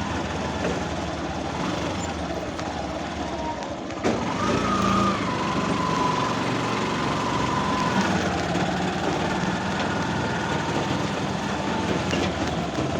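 A motor vehicle running, with steady engine and road noise. About four seconds in, the sound jumps louder and a steady high whine holds for about four seconds.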